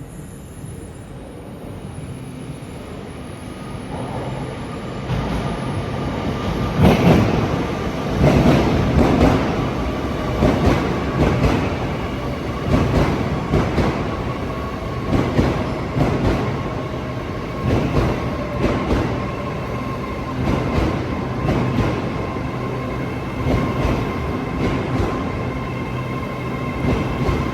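LNER Class 801 Azuma electric train coming into the platform. Its wheels knock over rail joints, often in pairs, about once a second, over a steady whine.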